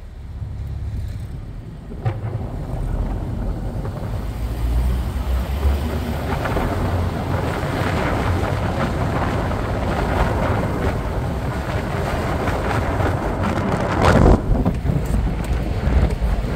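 1958 Porsche 356A Cabriolet's air-cooled flat-four engine running on the move, with wind and road noise building from a few seconds in. There is a brief louder burst of wind noise near the end.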